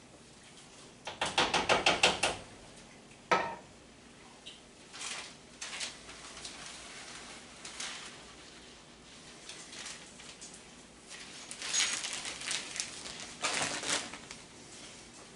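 A utensil stirring the orzo in a pan, clinking against the pan in quick runs of strokes. There is one sharp knock a few seconds in, and scattered taps between the runs.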